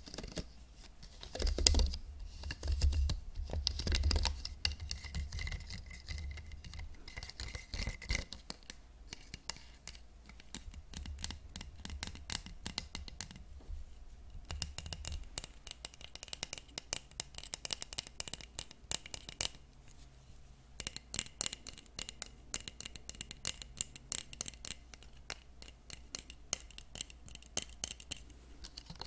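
Hairbrush bristles scratched and brushed close to the microphone: a dense run of quick, crackly scratching strokes. Low handling bumps come in the first several seconds.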